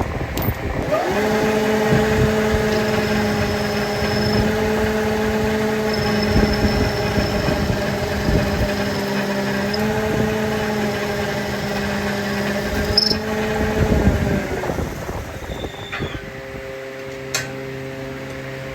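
A machine's electric motor spinning up about a second in, running at a steady pitch, then winding down near the end, with a few sharp metallic clicks shortly before it stops; another machine hums at a different pitch afterwards.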